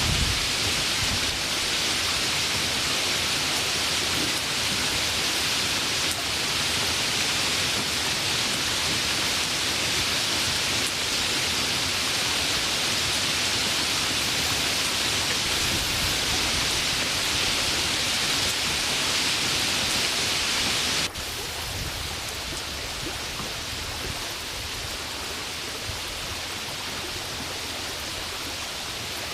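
Steady hiss of falling rain. About 21 seconds in it drops suddenly to a softer, steady rain.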